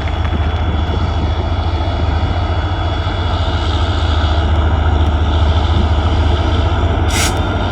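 Passenger train pulling out of a station: a loud, steady low rumble of the locomotive and moving coaches, with a short hiss about seven seconds in.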